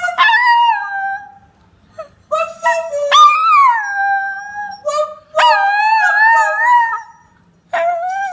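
Chinese Crested Powderpuff dog howling: four drawn-out howls with short breaks between them, each wavering in pitch. The second rises sharply and then slides down, and the last is brief.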